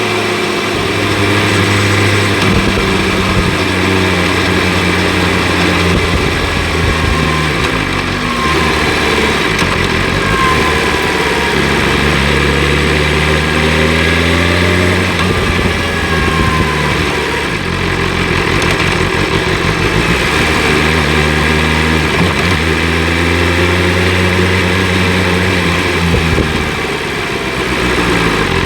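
BMW S1000 RR inline-four engine running through an Akrapovic exhaust, its pitch rising under acceleration and stepping down at gear changes several times.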